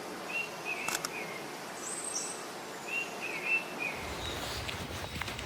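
Songbirds calling in short repeated phrases, one high and one lower, over faint outdoor background. A sharp click comes about a second in, and a low rumbling noise starts about four seconds in.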